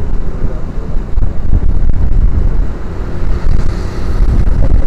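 Wind buffeting an action camera's microphone on a moving motorcycle, over engine and road noise, as a heavy, steady low rumble.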